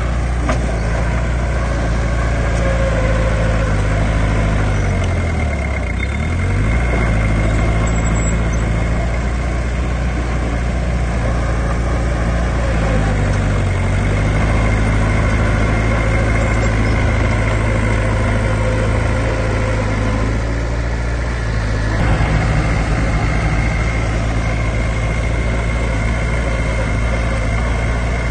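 Heavy diesel engine of an earthmoving machine, a bulldozer or dump truck, running steadily with a faint high whine. Its speed dips and recovers twice, about six seconds in and again about thirteen seconds in.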